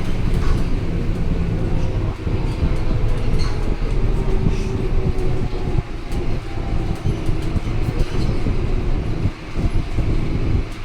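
Scania K230UB single-deck bus on the move: a steady low drone from the engine and drivetrain, with scattered rattles and clicks. A faint whine drops slowly in pitch over the first half.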